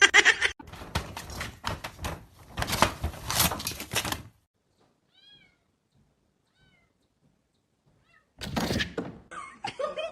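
Knocks and rustling, a near-silent pause with a few faint cat mews, then a loud thump and more cat sounds near the end.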